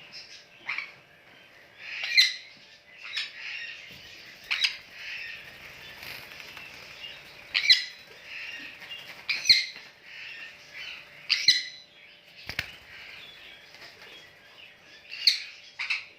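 Parrots calling: a steady chatter of chirps, broken about every two seconds by loud, sharp squawks.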